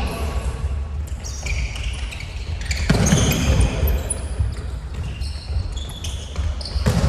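Indoor futsal play on a gymnasium floor: the ball kicked and bouncing, with a loud thud about three seconds in, amid short high squeaks from shoes on the court.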